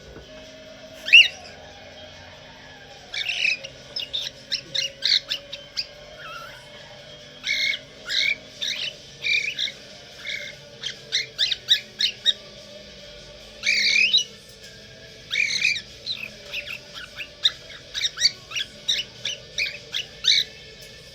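A four-month-old budgerigar chirping and squawking in short, irregular bursts of chatter. The loudest calls come about a second in and around the middle.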